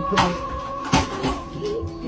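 Two sharp bangs, about three quarters of a second apart, over background music of sustained steady tones.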